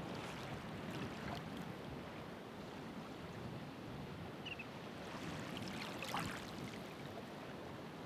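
Ocean waves washing in and breaking, with two brighter surges of foaming water near the start and about two-thirds of the way through.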